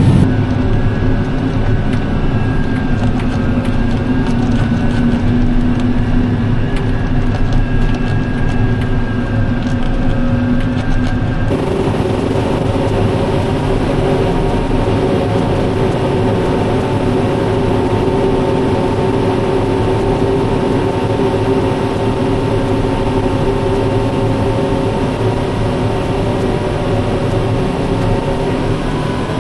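Heavy harvest machinery running steadily, a loud even engine drone with steady hums. About eleven seconds in the sound changes abruptly to a different drone, as if switching to another machine.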